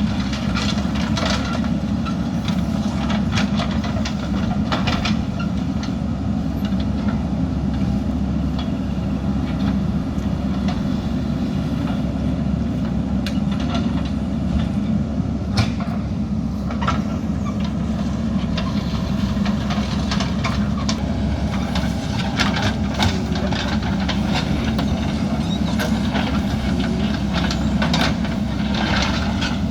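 JCB backhoe loader's diesel engine running steadily at working load, with scattered short clanks and clatters from the bucket working soil and stone.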